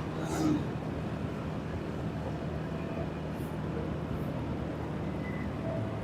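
A vehicle engine running steadily under road noise while driving. There is a brief louder sound about half a second in.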